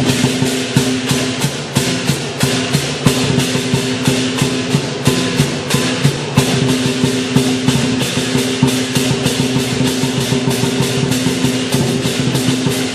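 Chinese lion dance percussion: drum and clashing cymbals beating a fast, steady rhythm of about four strokes a second over a sustained ringing tone. It stops right at the end.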